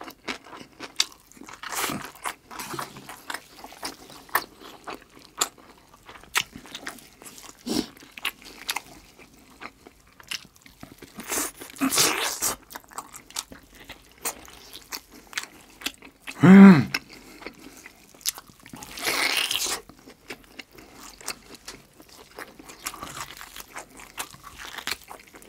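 Close-miked chewing and biting on braised pork trotter (jokbal), with many small wet mouth clicks and smacks. A short hum about two-thirds of the way through and a breathy rush just after.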